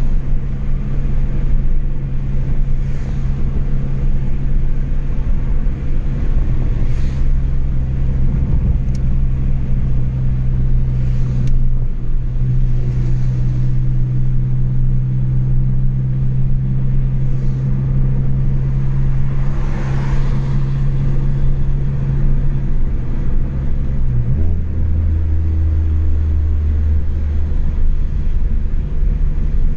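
Chevrolet Astra 2.0 four-cylinder engine through a straight-through exhaust with no muffler, running at a steady drone on the move. About three-quarters of the way through the drone drops sharply in pitch and carries on lower, and a few brief whooshes pass over it.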